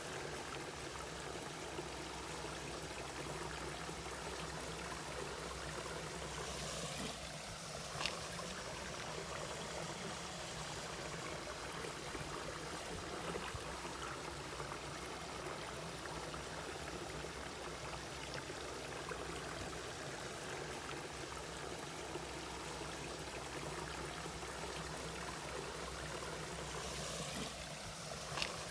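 Mountain valley stream flowing steadily over rocks. A brief sharp tick or splash stands out twice, about a third of the way in and just before the end.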